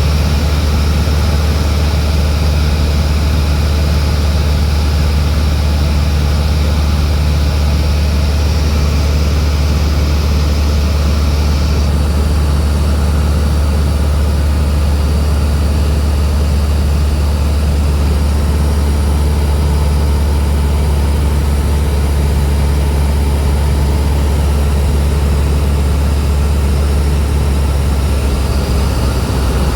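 Cessna 172's piston engine and propeller running at a steady setting, a constant deep drone with a hiss of air over it.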